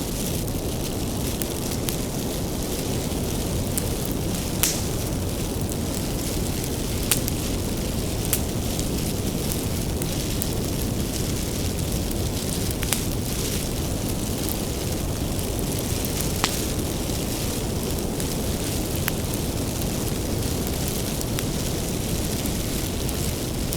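Wood bonfire burning: a steady low rumble of flames with sharp crackles and pops from the burning firewood at irregular moments.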